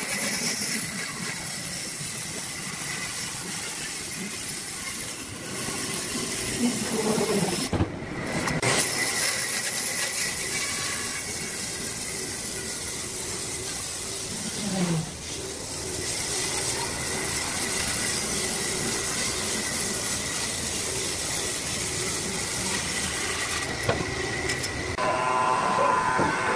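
Wood lathe running while a turning tool cuts the spinning workpiece: a steady hiss of shaving wood over a constant high whine, broken briefly about eight seconds in, at about fifteen seconds, and again near the end.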